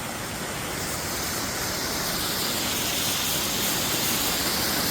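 Waterfall crashing down a mountainside: a steady roar of falling water that grows slowly louder.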